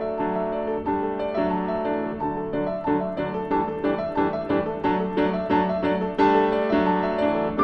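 Piano music playing, a run of quick notes over a steady accompaniment, with no firework bangs heard.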